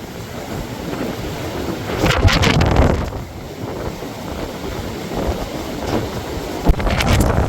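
Blizzard wind blowing hard across the microphone in gusts, with a low rumble and two stronger surges, about two seconds in and near the end.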